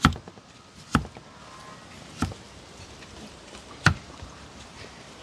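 Knife chopping on a cutting board: four sharp chops at uneven intervals, about a second or more apart.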